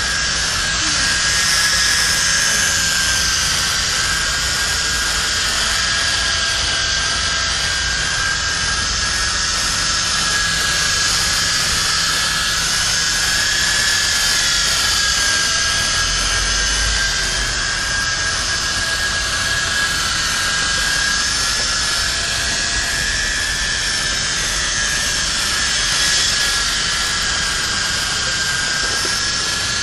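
Venom Ozone RC helicopter's small electric motors and 13-inch counter-rotating rotors whining steadily in flight, the high pitch wavering slightly as the motor speeds change.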